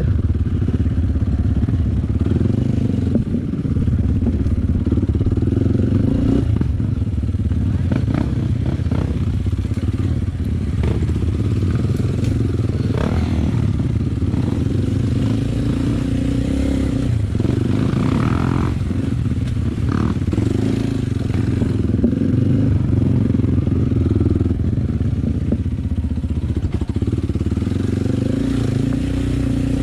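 Enduro motorcycle engine running steadily under way, with clatter and knocks.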